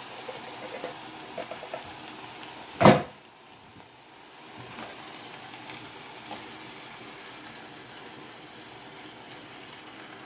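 Kitchen handling at a chili pot as canned diced tomatoes go in: a few light clicks, then one loud sharp knock about three seconds in, over a faint steady hiss from the cooking pot.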